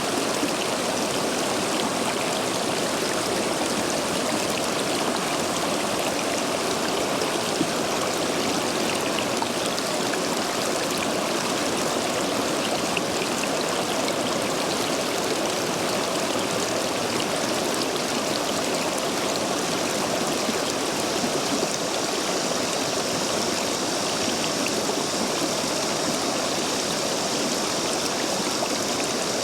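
Stream water rushing steadily through a row of stepping stones, the stream running high after heavy rain.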